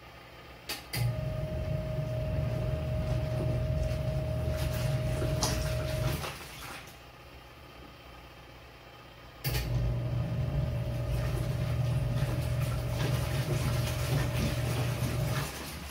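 Twin-tub portable washing machine's wash motor turning the agitator with a steady hum: it runs for about five seconds, stops for about three, then runs again for about six seconds, the stop-and-go pattern of the wash cycle.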